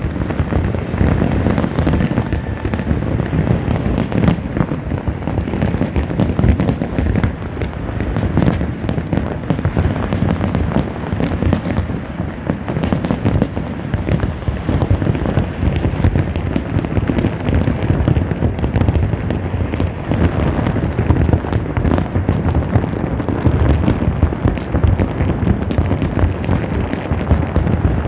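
Fireworks display going off without a break: dense overlapping bangs and booms with crackling, many shells bursting every second.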